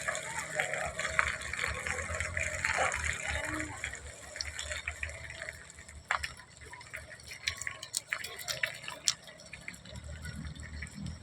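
Running water, a steady wash with scattered sharp drips.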